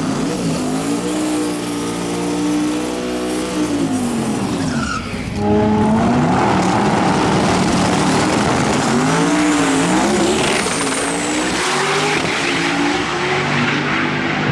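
Two stick-shift drag cars, an S10 pickup and a compound-turbo Toyota Supra, racing side by side. The engines rev up and drop back in pitch with each gear change, and they get louder about five and a half seconds in.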